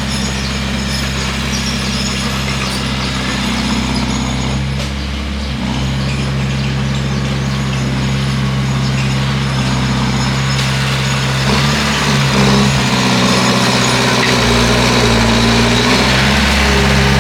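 Bulldozer's diesel engine running steadily, its note shifting and wavering about twelve seconds in and again a few seconds later.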